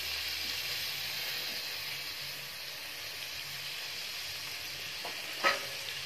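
Minced beef and peas sizzling steadily in oil in an aluminium pressure cooker pot: the water has cooked off and the oil has separated, so the qeema is frying in its own fat (the bhuna stage). A single short click about five seconds in.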